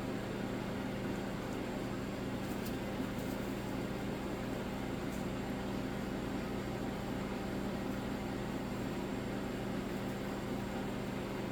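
Steady low mechanical hum over a soft hiss, from a running motor such as a fan or household appliance, with a few faint ticks.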